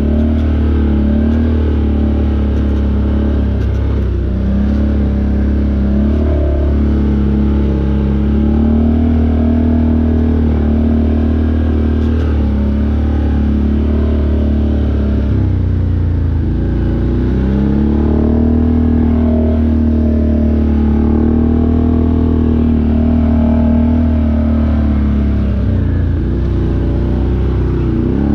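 Off-road vehicle engine running steadily under way, its pitch dropping and climbing back several times as the throttle is eased off and reapplied.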